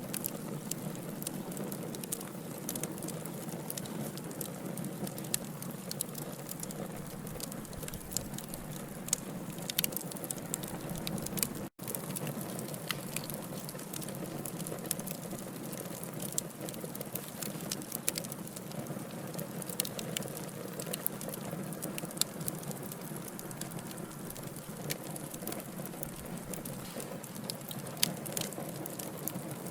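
Log fire burning: a steady low rushing hiss with frequent sharp crackles and pops from the burning wood. The sound drops out for an instant about twelve seconds in.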